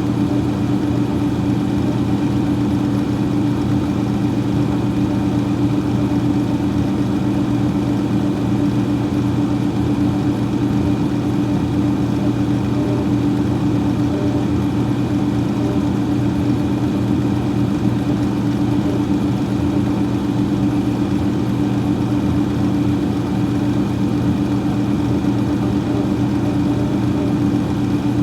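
Freezer fan running steadily: a constant mechanical hum with a few steady low tones over a faint hiss.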